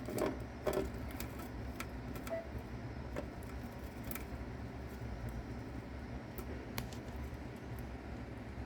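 Mouse chewing on a cicada: scattered small crunching clicks, two louder ones in the first second, over a steady low hum.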